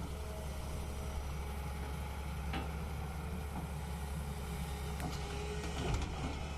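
Heavy vehicle engine running steadily at a low, even pitch, with a few light clicks and a low thump near the end.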